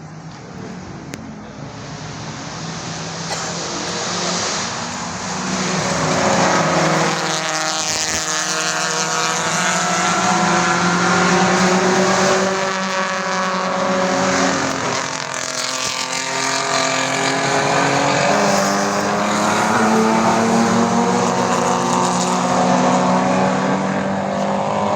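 Classic race car engines running at high revs, growing louder over the first several seconds and then holding. The pitch dips and climbs again a couple of times, as at gear changes.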